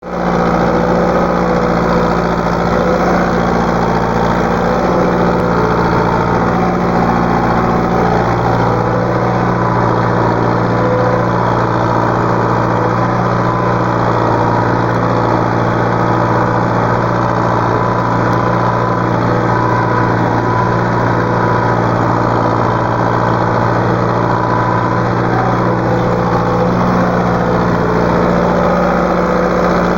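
Tractor's diesel engine running steadily under load while pulling a harrow.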